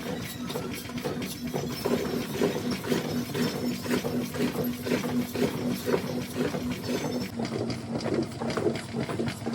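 Washing machine running: a steady hum with a fast, regular mechanical clatter.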